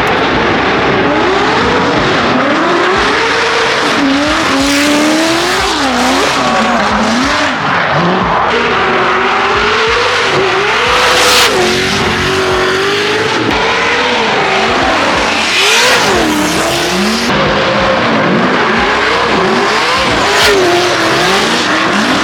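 Pro drift cars sliding past at close range: several engines revving hard, their pitch swinging up and down continuously, over the hiss and squeal of spinning tires, with three louder surges as cars sweep by.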